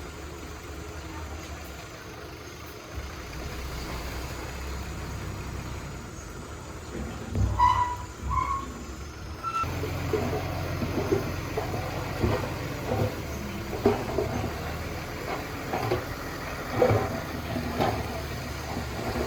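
Heavy diesel machinery engine running steadily. About eight seconds in there is a short pair of pitched beeps; after that the engine runs louder, with irregular knocks and clatter.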